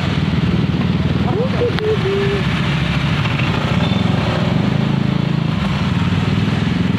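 A small engine running steadily with a dense low rumble, with a brief snatch of a voice about a second and a half in.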